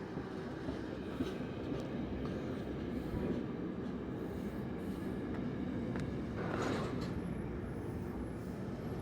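Freight train running through the station at speed, its wagons rumbling past steadily with sharp wheel clicks on the rail joints and a brief hiss about two-thirds of the way through.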